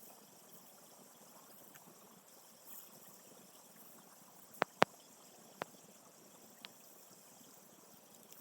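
Water running through a drainage channel, a steady faint rush. Four sharp clicks or knocks come near the middle, two of them close together.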